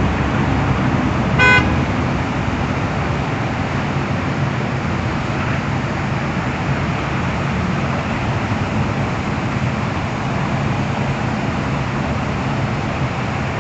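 Steady running noise of a vacuum street-sweeper truck working the road amid traffic. A vehicle horn gives one short toot about a second and a half in.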